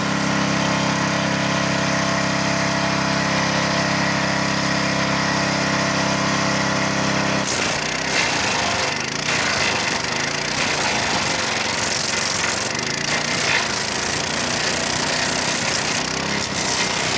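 Petrol wood chipper with a 7 hp engine running steadily; about halfway through, the steady hum gives way to a rougher, irregular noise with a few sharp knocks.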